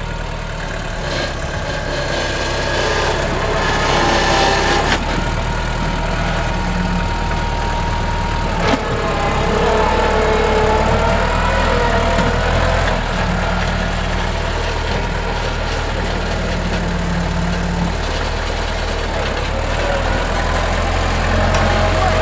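NorTrac 35XT compact tractor's engine running steadily while the tractor works, with one sharp knock about nine seconds in.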